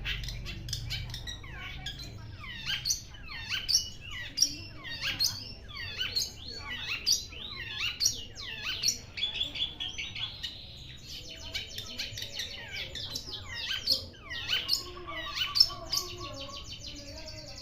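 Long-tailed shrike calling over and over: a run of short, harsh notes that each sweep down in pitch, about one or two a second. A steadier high tone runs for a few seconds midway.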